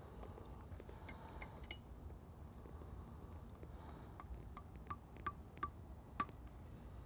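Campfire crackling faintly: a few sharp pops and snaps, the loudest in a cluster over about two seconds near the end, over a low steady rumble.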